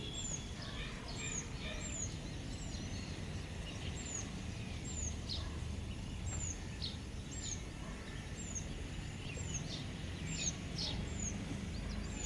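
Wild birds calling outdoors: one bird repeats a short, high, downward-slurred call about once a second, with other birds chirping lower down. Under them runs a steady low rumble.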